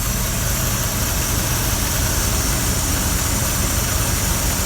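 A 1983 GMC K1500's 350 V8 idling steadily, with a grinding from inside the alternator. The owner takes the grinding for worn brushes, and the alternator is putting out under 12 volts.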